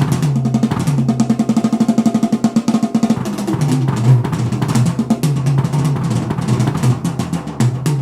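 Drum-heavy music with a fast beat over a repeating bass line, played through a Canton Plus S 2-way mini speaker in an audio test.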